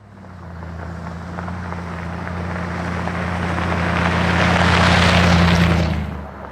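A motor vehicle's engine running with a steady low hum, while a rushing noise swells over several seconds and then falls away quickly about six seconds in.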